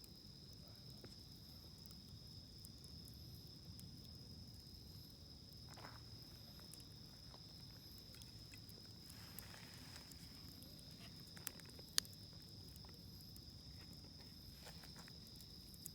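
Wood campfire crackling softly with scattered small pops, and one sharp pop about twelve seconds in, over a steady high trill of insects.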